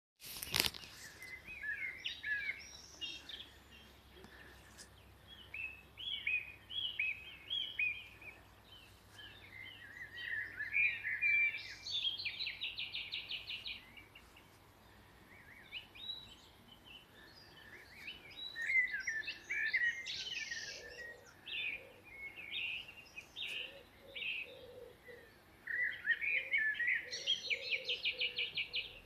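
Several songbirds singing, short varied phrases with fast rapid trills at intervals, after a sharp click at the very start.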